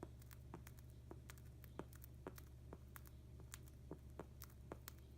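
Faint, irregular light clicks and taps, a few each second, of a cockatiel foraging for millet seeds on its mat, over a low steady hum.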